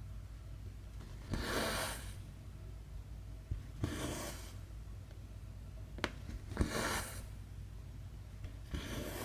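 Cotton embroidery thread being pulled through cross-stitch fabric: four short rasping swishes about two and a half seconds apart, with a few small clicks in between.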